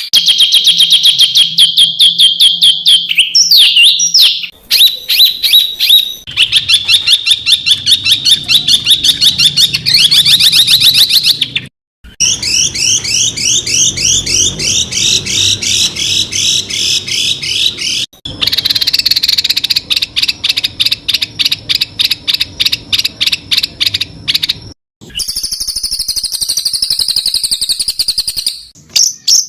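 Songbird 'tembakan' phrases: fast machine-gun runs of repeated high chirps and trills, in about five separate clips cut one after another with short gaps between. The middle clip is a string of quick rising chirps, about five a second, and the last is a higher, wavering trill.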